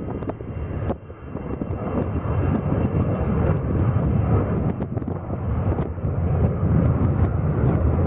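Jet engine noise from a Boeing E-3 AWACS's four TF33 turbofans: a dense low rumble that dips briefly about a second in, then builds and stays loud. Brief clicks are scattered through it.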